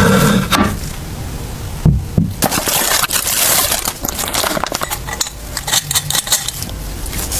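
Hard parts clinking, tapping and knocking against each other at an irregular pace as engine parts are handled and fitted during assembly.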